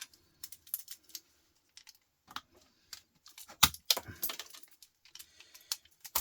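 Irregular light metallic clicks and clatters of a screwdriver and small metal parts being worked, as a tiny motor is taken out of a CD changer, with one sharper knock about three and a half seconds in.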